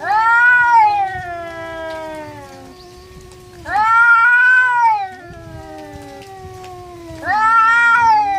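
Two stray cats caterwauling at each other in a fight standoff. One gives three loud, long yowls, about three to four seconds apart, each rising and then falling in pitch. Under them runs a lower, drawn-out moaning yowl that carries on between the cries.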